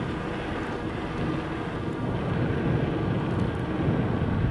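Strong wind rushing and buffeting over the microphone of a rider on an electric scooter at about 60 km/h, with a faint steady hum beneath it. The rush swells a little after about two seconds.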